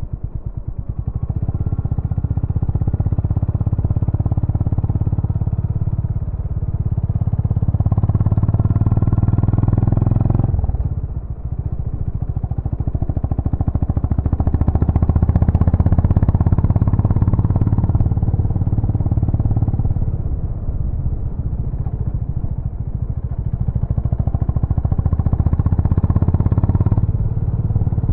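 Honda GB350's air-cooled single-cylinder engine running through its exhaust with a dense beat of firing pulses. The note swells and eases with the throttle, and falls off sharply about ten seconds in and again near the end.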